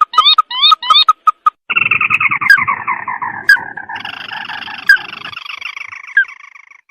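Ruddy-breasted crake calling: a quick series of short rising notes, then, under two seconds in, a long fast trill that slowly falls in pitch and fades out.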